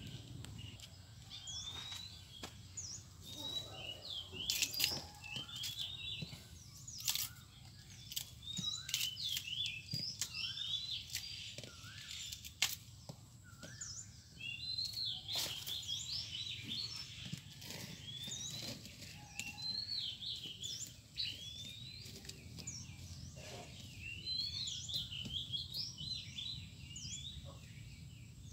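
Birds chirping: many short, quick calls, some rising or falling in pitch, repeated all through. Scattered sharp clicks and taps sound among them, the loudest about twelve seconds in.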